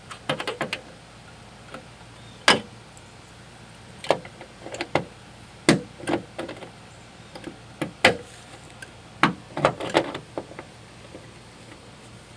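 Pliers twisting welded pulling pins off a steel tailgate panel: a string of sharp, irregular metal clicks and snaps.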